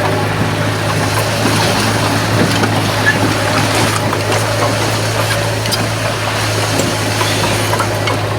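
Komatsu bulldozer's diesel engine running steadily, a constant low drone with scattered light clicks and clanks over it.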